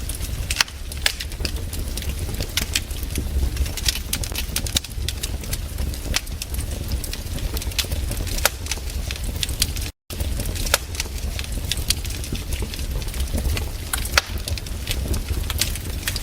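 Wood campfire burning, crackling and popping with irregular sharp snaps over a steady low rumble. The sound cuts out for an instant about ten seconds in.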